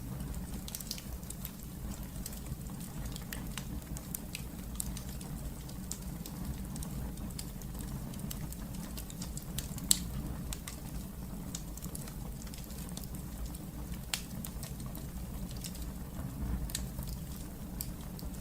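Wood fire in a fireplace crackling steadily, with a low rumble of flames under scattered small snaps and one loud pop about ten seconds in.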